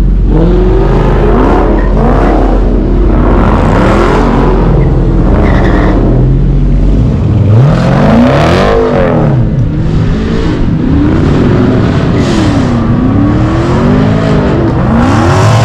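V8 muscle-car engines revved again and again, each rev climbing and falling back in pitch, several overlapping. The biggest rev comes about eight seconds in.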